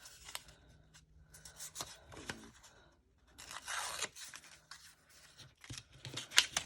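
Paper being handled and shuffled on a craft table: irregular rustling and crinkling with scattered sharp taps and clicks, the loudest cluster near the end.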